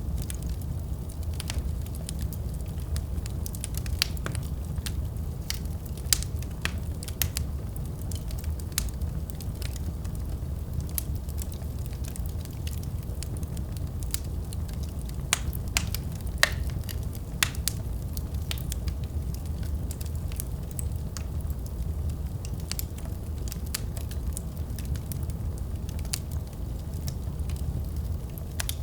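Wood fire crackling and popping over a steady low rumble of the flames, with scattered sharp pops every second or so.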